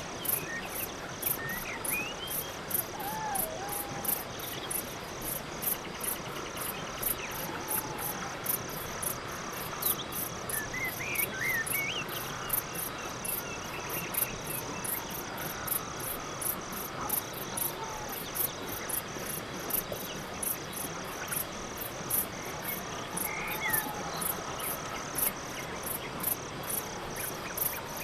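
Night-forest crickets chirping: a regular run of high chirps a little over two a second over a steady insect trill, with a few faint short calls now and then.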